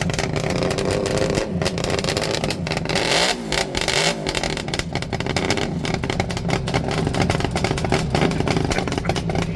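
Motorcycle engine running with a noisy exhaust, blipped up and back down briefly about three seconds in.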